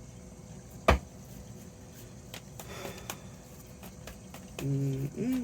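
A single sharp knock about a second in, a faint brief rustle around three seconds, then a short hummed "mm-mm" near the end.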